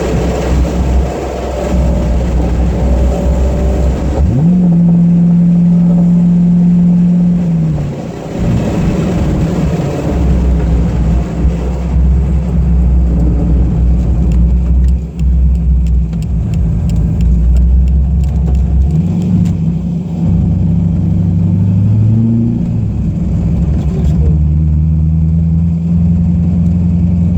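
Twin-turbocharged Chevrolet Corvette Z06 V8 running loudly. About four seconds in it is revved up sharply and held high for about three seconds before dropping back, then it rises and falls again a few more times.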